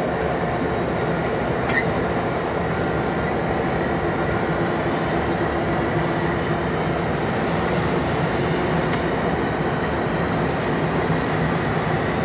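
CSX doublestack container train rolling past with a steady rumble of wheels and cars, and the steady drone of diesel locomotive engines as the locomotives come alongside. There is a brief faint squeal about two seconds in.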